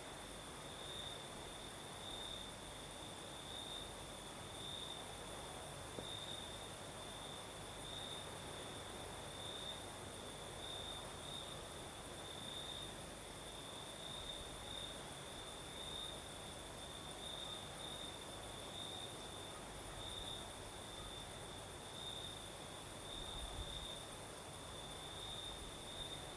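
Crickets chirring in a steady night chorus: an unbroken, finely pulsing high trill, with a fainter, higher insect hiss above it.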